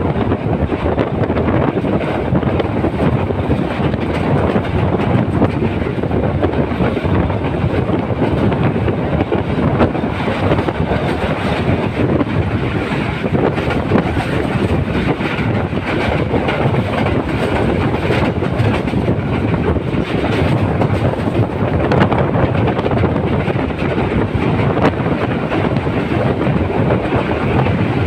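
Passenger train running along the rails, heard from aboard: a steady rumble and rattle of the moving carriage.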